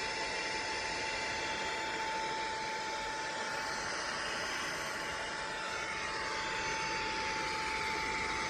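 Minthouz cordless handheld vacuum cleaner running steadily: a rush of air with a constant high motor whine.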